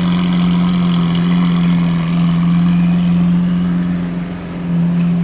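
Lamborghini engine idling with a steady, even hum that holds one pitch without revving, dipping briefly in loudness near the end.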